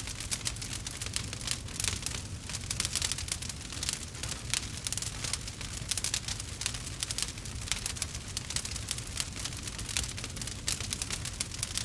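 Wood fire crackling in a fireplace: many quick, irregular pops and snaps over a low steady rumble.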